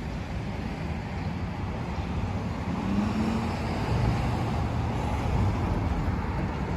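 Steady street traffic noise: a low rumble of passing vehicles, with a short low engine tone about three seconds in.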